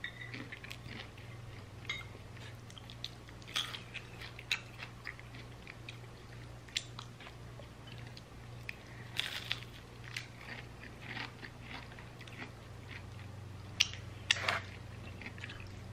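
Close-up chewing and biting of crispy fried chicken skin, with irregular short crunches scattered through and a faint steady low hum underneath.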